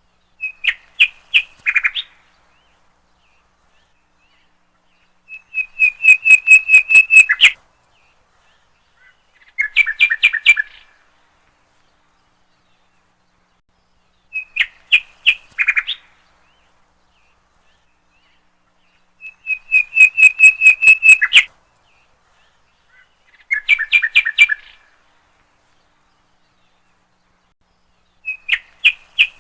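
A songbird singing short phrases of rapid, evenly spaced chirps every four to five seconds, with complete silence between them. The same sequence of phrases comes round again about every fourteen seconds, as in a looped recording.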